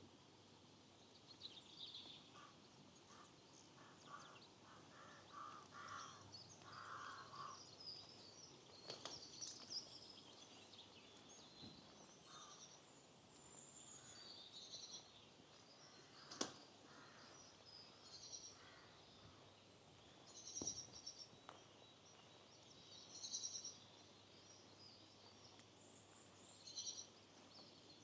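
Faint birdsong: several small birds chirping and singing on and off, with a run of short, lower calls from another bird in the first several seconds. Two or three sharp clicks stand out.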